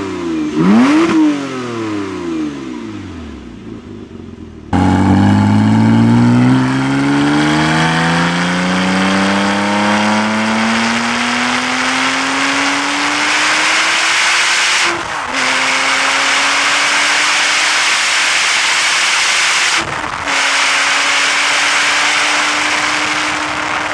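2006 Porsche Cayman S flat-six through a Carnewal GT aftermarket exhaust: a quick rev blip that falls away. After a sudden cut about five seconds in, the engine pulls hard under acceleration with its note climbing steadily, dropping in pitch at two upshifts, about 15 and 20 seconds in, and climbing again after each.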